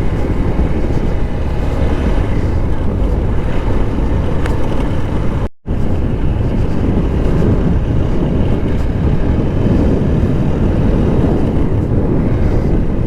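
Wind rushing over an action camera's microphone on a moving motorcycle, with the bike's engine and road noise running underneath. The sound cuts out for a moment about halfway through.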